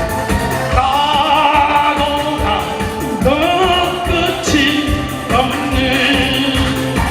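A man singing a song over backing music with a steady low beat.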